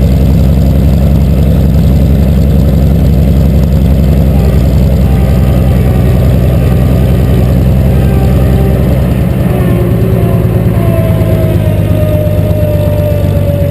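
1953 Cockshutt 50 tractor engine running steadily with a rapid, even pulse. About nine seconds in it drops slightly in level, and a faint whine comes in that slowly falls in pitch.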